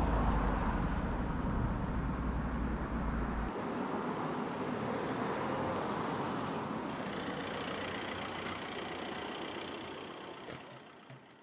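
Motorcycle on the move: steady engine and road noise with wind rush. A heavy low rumble drops out abruptly about three and a half seconds in, and the whole sound fades out near the end.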